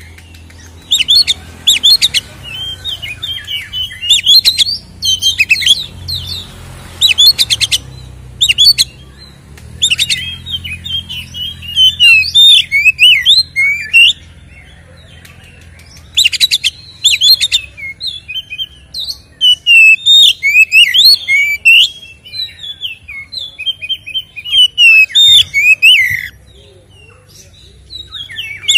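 Oriental magpie-robin (kacer) singing a loud, varied song in bursts of quick whistles, trills and rapid repeated notes, with short pauses between phrases: full, aggressive song of the kind used to provoke rival males.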